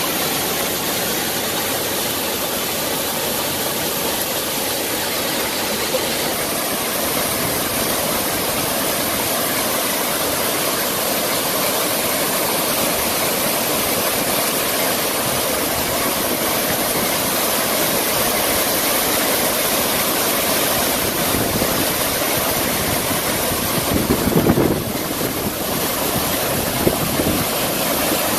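Heavy rain and hail pouring down in a steady hiss, with a brief louder low rumble near the end.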